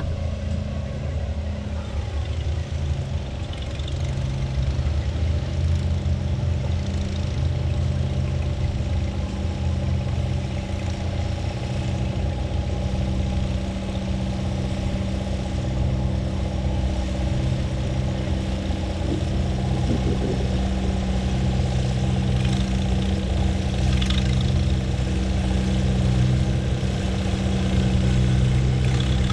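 Antique farm tractor engine running at a steady speed, its pitch holding constant and getting a little louder near the end.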